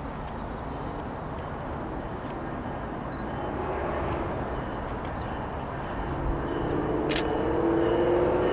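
Distant diesel-hauled passenger train approaching: a low rumble that grows louder over the last few seconds, with the locomotive's engine tones rising through it, and one sharp click near the end.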